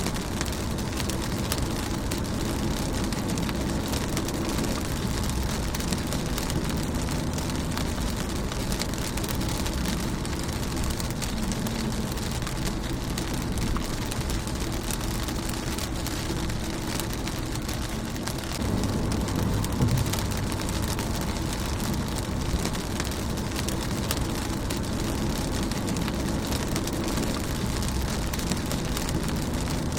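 Steady rain falling on a car's windshield, a dense, even patter of drops over a low rumble. About two-thirds through, the low rumble briefly swells louder for a second or two.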